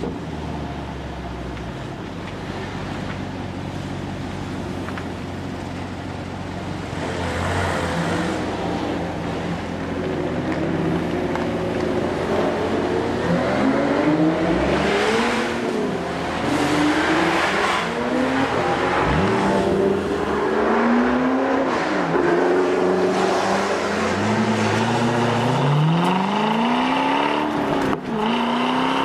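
Chevrolet Corvette C6 V8 engine driven hard, its pitch climbing and falling again and again as it revs up through the gears and drops back, over a steady rush of wind and tyre noise.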